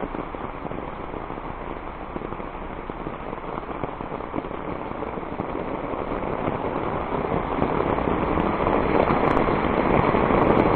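Rain falling steadily, growing louder over the last few seconds.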